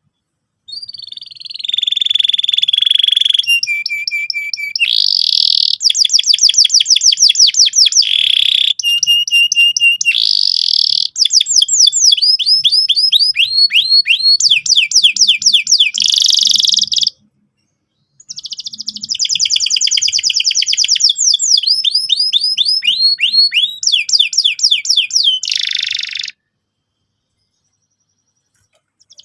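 Domestic canary singing in full voice, a long song of fast trills ("rolls") and repeated chirps. It comes in two long phrases with a short break in the middle, and the song stops a few seconds before the end.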